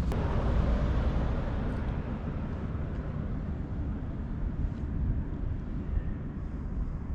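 Outdoor traffic noise with wind rumbling on the microphone; a vehicle swells past in the first second or two and fades.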